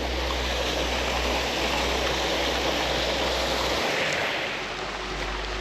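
Small woodland waterfall splashing down a creek, a steady rushing of water. A low rumble underneath stops about four seconds in.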